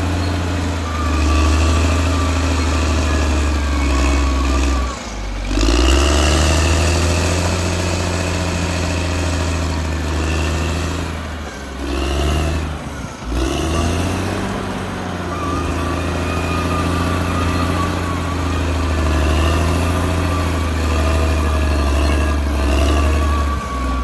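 Caterpillar D6R XL bulldozer's diesel engine working under load, its pitch rising and falling, with brief drops in revs about five seconds in, around twelve to thirteen seconds, and at the very end.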